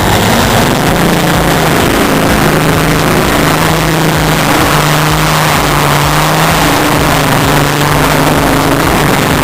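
Competition pulling tractor's engine running flat out under full load while dragging the sled, loud and steady with a slightly wavering pitch.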